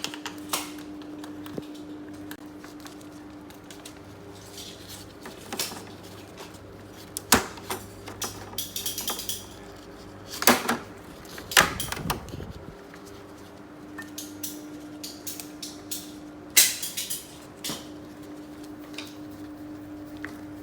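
Scattered metallic clinks and knocks of tools and parts being handled during air-conditioner installation work, busiest in the middle and again near the end, over a steady low hum.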